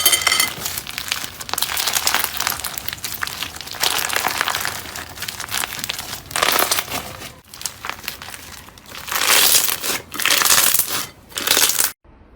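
Slime being squeezed and pressed by hand, giving dense crackling and popping, louder about six and a half seconds in and again from nine to eleven seconds. It cuts off suddenly near the end.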